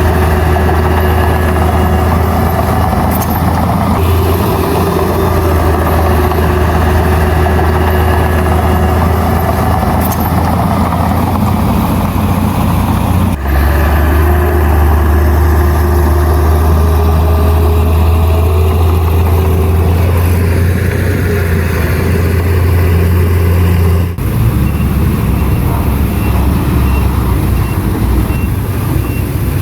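Heavy diesel earthmoving machinery running under load, a steady low engine drone. The sound changes abruptly twice, about 13 seconds and 24 seconds in.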